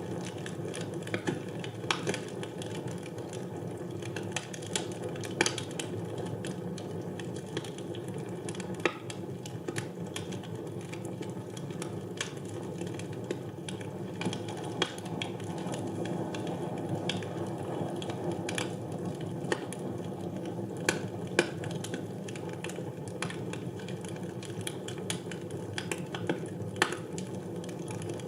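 Wood fire burning in a fireplace: a steady low rush of flames with irregular sharp crackles and pops, a handful of them louder snaps.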